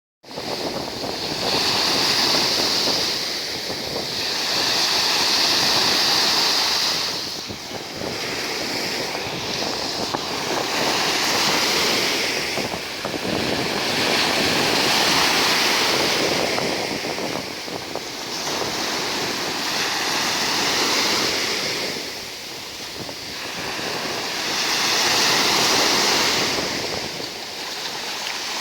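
Black Sea surf washing onto the shore, the noise of the waves swelling and falling back every few seconds.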